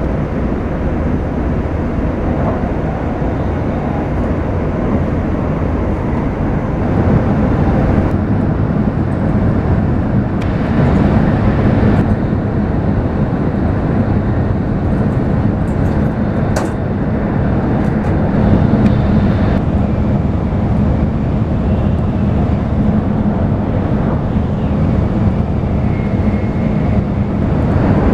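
Steady rumble and rushing noise of a Shinkansen bullet train running at speed, heard from inside the passenger cabin.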